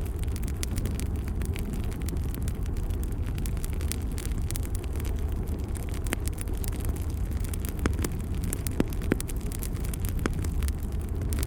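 Wood fire burning in a fireplace: a steady low rumble with scattered sharp crackles and pops, a few louder pops in the second half.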